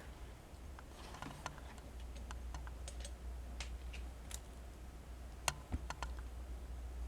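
Light clicks and taps of a toy Fordson Super Major tractor and its mule dozer attachment being handled and worked on the three-point hitch, with a sharper knock about five and a half seconds in, over a steady low hum.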